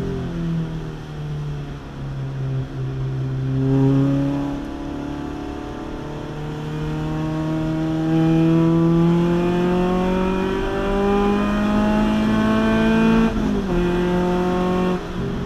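Renault Clio Trophy's 2.0-litre four-cylinder engine heard from inside the cabin under hard acceleration, its pitch climbing steadily for about eight seconds. Near the end the pitch steps down sharply at a gear change and then holds.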